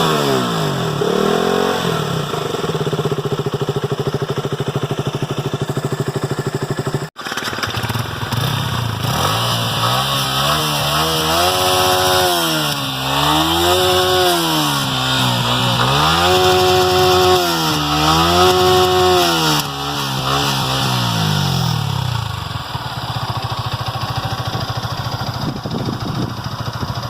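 Single-cylinder sport motorcycle engine revved on the stand: it falls back from a rev to idle, cuts out briefly about seven seconds in, then idles and is blipped up and down several times in a row, each rev lasting about two seconds, before settling back to idle.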